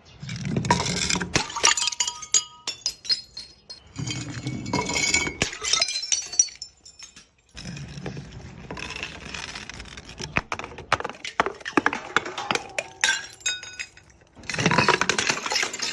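Glass bottles breaking, with shards clinking and ringing as they scatter. It comes in four bouts of crashing and tinkling, a few seconds apart.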